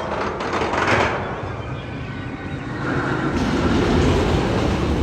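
Roller coaster train rumbling along its steel track. The rumble swells about a second in, then builds again from about three seconds in.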